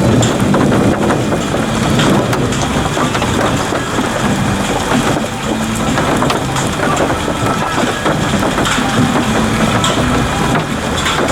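Heavy storm noise of rain and wind, a dense steady rush with scattered sharp ticks.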